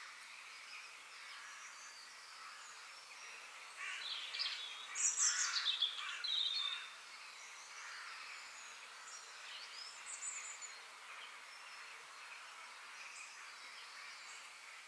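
Forest birds singing, several songs and chirps overlapping. One bird sings louder for about three seconds near the middle, in quick rising and falling whistles.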